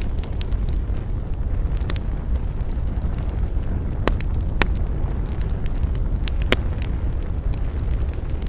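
Wood campfire burning: a steady low rumble of flames with sharp crackles and pops of burning wood scattered through, a few louder snaps about four and six seconds in.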